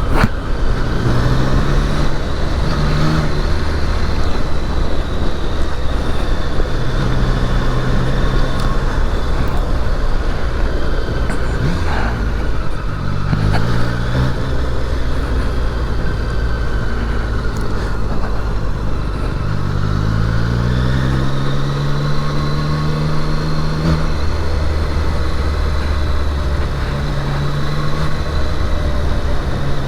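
Triumph Daytona 660's three-cylinder engine pulling the bike along on the road under a steady rushing noise. The engine note climbs under acceleration about halfway in, and again in a long rise about two-thirds of the way through.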